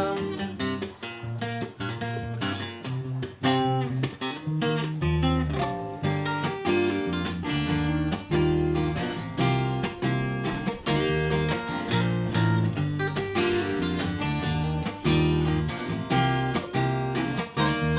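Acoustic guitar playing an instrumental passage of a surf-style song, many quickly picked and strummed notes over a bass line, without vocals.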